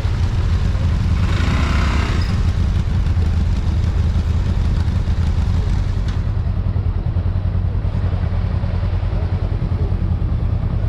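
Motorcycle running along the road, its engine drone under a heavy low rumble of wind on the microphone. A brief hiss comes about a second in.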